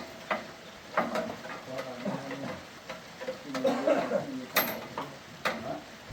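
Irregular light clicks and taps, like metal parts or tools being handled, over a faint murmur of voices.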